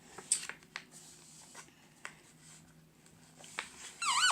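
Sheet of paper rustling and crackling in short taps as it is creased and folded into a paper airplane. Near the end comes a brief, loud squeak that wavers up and down in pitch.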